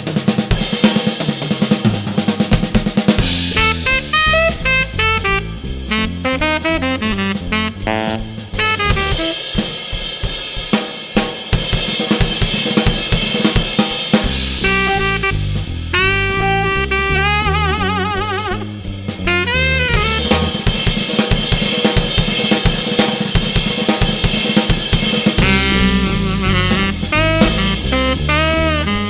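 Jazz trio playing a swing tune: a busy drum kit with snare, hi-hat and cymbals, under a walking bass line. A tenor-range saxophone plays short phrases, some held with vibrato, in between.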